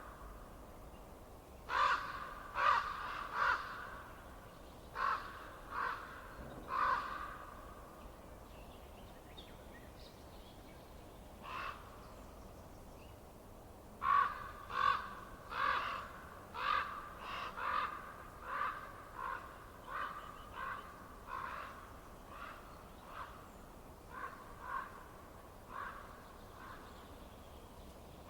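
A bird calling repeatedly, each call short and pitched. The calls come in groups of two or three, then a single call, then a steady run of about fifteen calls, roughly one a second, that grows fainter toward the end.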